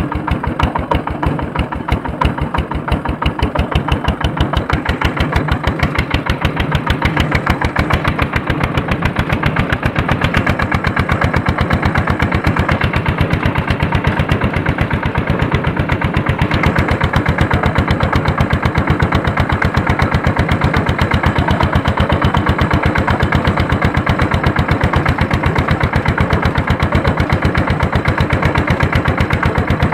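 S-231 tractor's diesel engine running steadily under load while pulling a harrow, each firing stroke heard as an even, rapid beat; it gets a little louder in the first few seconds, then holds steady.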